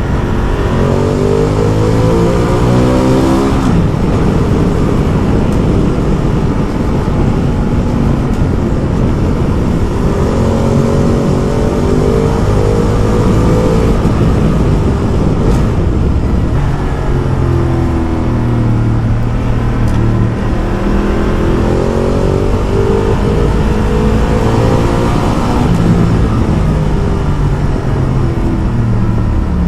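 Ducati Multistrada motorcycle engine under way, climbing in pitch as it accelerates several times and dropping back between, over a steady rush of road and wind noise.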